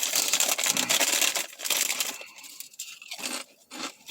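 A plastic-foil bag of potato chips crinkling and being torn open. Dense crackling gives way after about a second and a half to a few scattered crackles.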